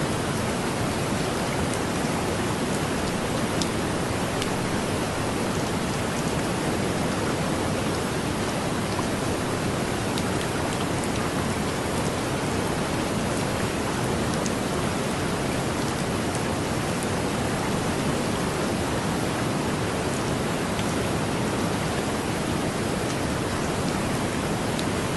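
Heavy rain falling steadily: a dense, even hiss with a few sharp ticks of single drops.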